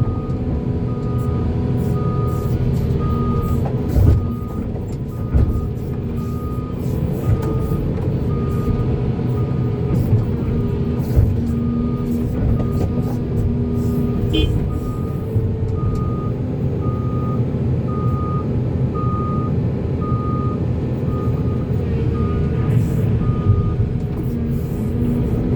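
Diesel heavy machinery running steadily while a reversing alarm beeps evenly, a little under two beeps a second, stopping near the end, with a few clunks among them.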